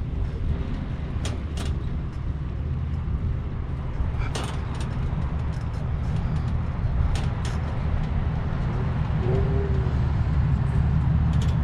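Wind rumbling on the microphone of a moving bicycle rider, a steady low rumble that slowly grows louder, with a few sharp clicks and rattles scattered through it.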